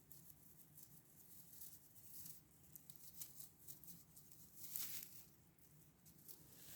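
Faint rustling and light scratching, with a slightly louder rustle about five seconds in; otherwise near silence.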